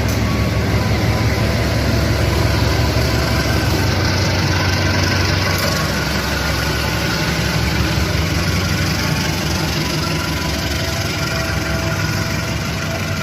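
Diesel locomotive engine running steadily with a deep low hum as it stands ready to haul the train away.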